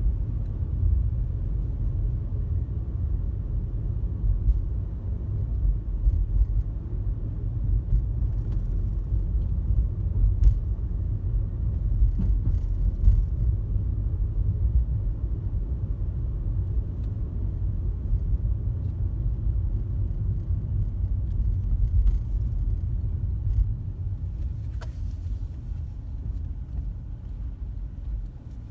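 Steady low road and tyre rumble inside a moving car's cabin, growing quieter over the last few seconds.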